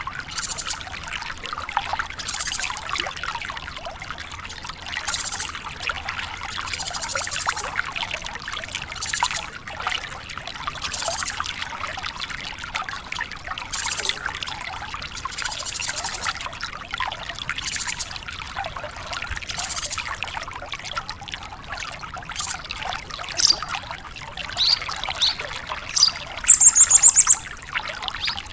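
Water trickling steadily. Near the end a branjangan lark starts calling, first a few short high chirps and then a loud, fast, high trill.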